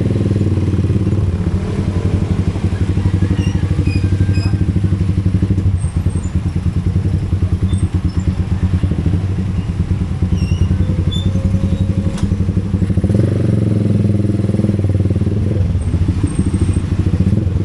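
Motorcycle engine running steadily, a loud low drone with rapid firing pulses that rises slightly about two-thirds of the way through.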